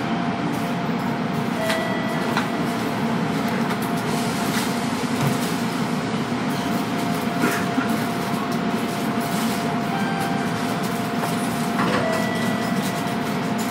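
Cabin noise of a Kintetsu electric train standing at the station before departure: a steady hum with a constant whine over it, and a few faint clicks.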